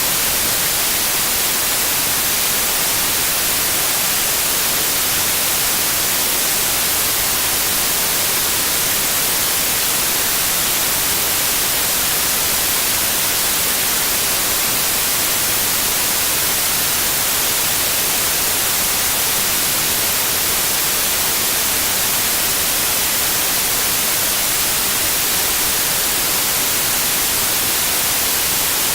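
Steady synthetic white noise, an even hiss weighted toward the high end, unchanging throughout.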